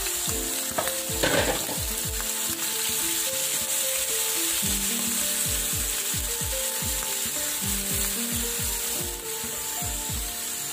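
Mussels shallow-frying in hot coconut oil in a non-stick pan, a steady sizzle, with a silicone spatula stirring and scraping through them. Quiet background music with a steady beat plays underneath.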